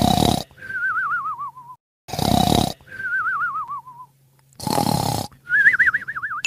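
Cartoon snoring sound effect, three times over: a rasping snort on the breath in, then a wavering whistle on the breath out, the first two whistles sliding down in pitch.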